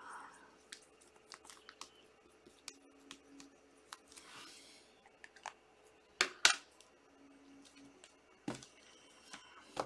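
Trading-card packs and cards being handled at a table: faint scattered clicks and taps, a short rustle about four seconds in, and two sharper clicks a little after six seconds.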